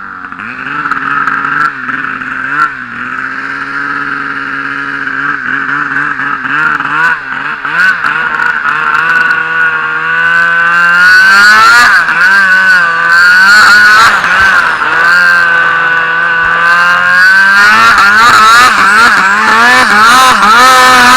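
Turbocharged Arctic Cat M1000 two-stroke snowmobile engine running hard under throttle, its pitch rising and falling as the rider works the throttle, and getting louder about halfway through.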